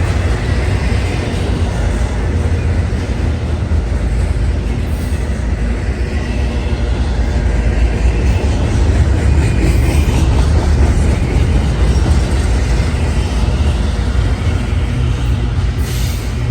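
A train rolling past with a steady, loud low rumble of wheels on rails.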